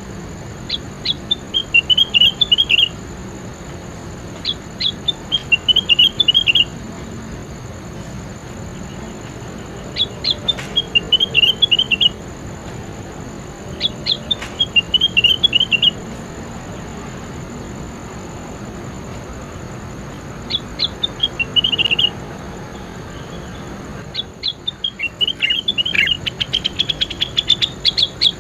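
A songbird repeating short phrases of quick, high chirping notes, each phrase about two seconds long with pauses of a few seconds between them, over a steady hiss and a thin high-pitched hum. Near the end comes a longer, faster run of notes.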